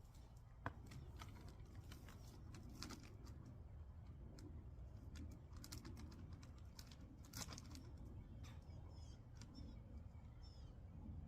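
Faint, irregular clicks and scratches of hands working granules and soil in a garden pot while bone meal is spread. Faint bird chirps come in a few times near the end.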